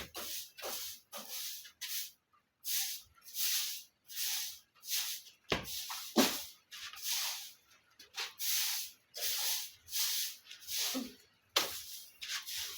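Repeated scraping strokes across a floor, about one and a half a second, clearing away chicken droppings, with a couple of sharp knocks in the middle and near the end.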